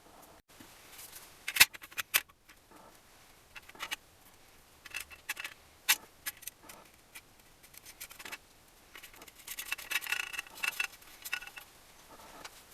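Metal engine parts and hand tools clicking and clinking during engine assembly. Sharp taps come about one and a half and six seconds in, and a rattling stretch with a faint metallic ring comes about ten seconds in.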